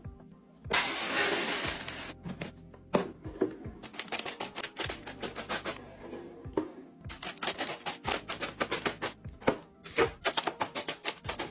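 Background music with a burst of hiss about a second in, then many quick clicks and knocks of containers, lids and items being handled and set down while a fridge is restocked.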